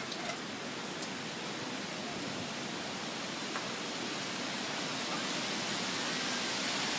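Heavy tropical rain pouring down, a steady hiss that grows a little louder toward the end. A single short click sounds shortly after the start.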